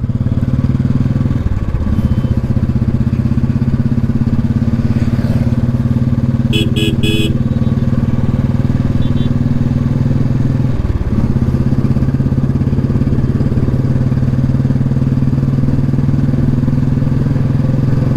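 Royal Enfield Bullet single-cylinder motorcycle engine running steadily on the move, its note dipping briefly twice, about one and a half and eleven seconds in. A short string of horn beeps sounds about six and a half seconds in.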